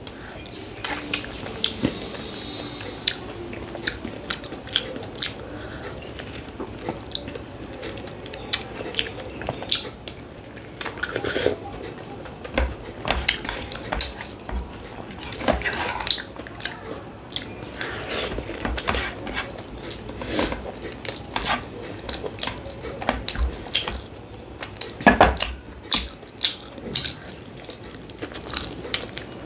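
Close-miked eating: chewing and biting, with frequent short clicks and clinks of a plate and utensils.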